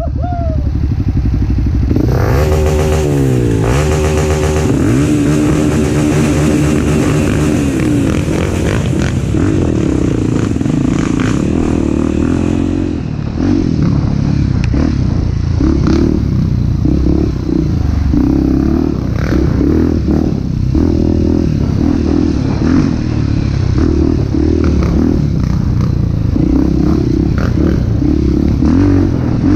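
Off-road trail motorcycle engine revving, its pitch climbing in the first few seconds, then the throttle opened and closed in quick pulses, with clattering.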